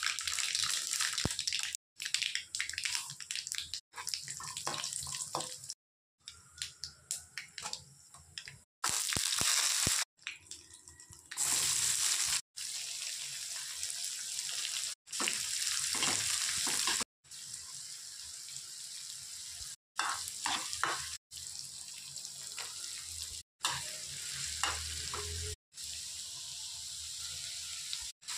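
Hot oil sizzling in a nonstick kadai as channa dal, chopped onion, green chillies, carrots and capsicum are tipped in, with occasional knocks and scrapes. The sound cuts off and starts again every couple of seconds.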